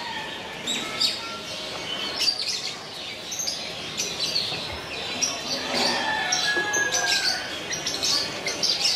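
Small birds chirping and calling: many short, high chirps overlapping, with a few longer whistled notes about six to seven seconds in.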